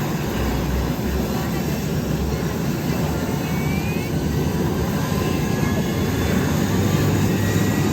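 F-15E Strike Eagle's jet engines running steadily: a deep rumble with faint whining tones above it, growing slightly louder near the end.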